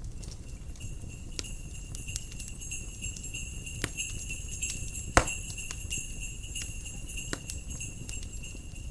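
Jingle bells shaking in a steady, continuous jingle, stopping near the end. Under them a wood fire crackles with scattered pops, a louder one about five seconds in, over a low rumble of wind.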